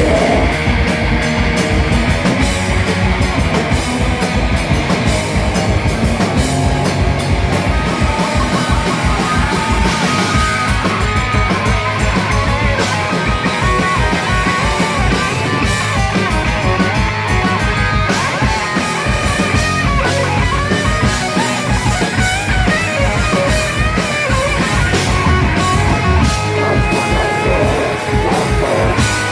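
Live rock band playing, with electric guitars over a steady, driving drum-kit beat.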